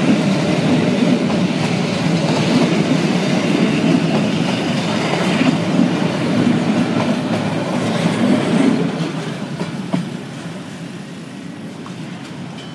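Train wagons rolling past, wheels clattering over the rail joints, fading away after about nine seconds as the train moves off.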